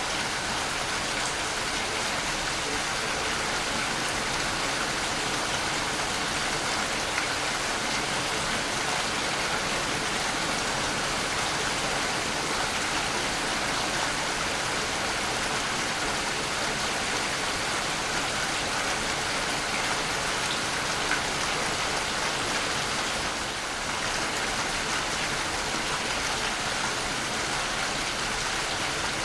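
Waterfall: a steady, even rush of falling and splashing water, dipping slightly in level for a moment about three-quarters of the way through.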